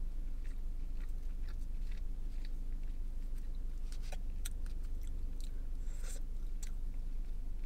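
Close-up chewing of soft egg bites, with small mouth sounds and scattered light clicks from a plastic fork picking at a paper tray, over a steady low hum in a car cabin.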